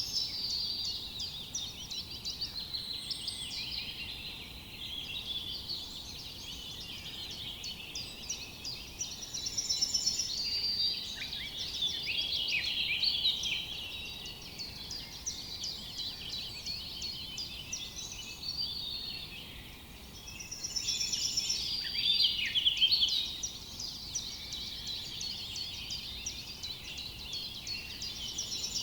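A dense forest dawn-chorus-like mix of many songbirds chirping and trilling at once, calls overlapping continuously, swelling louder about ten seconds in and again a little past twenty seconds.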